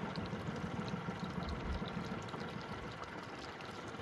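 Water lapping and splashing, over an uneven low rumble that slowly eases off, with scattered faint small ticks.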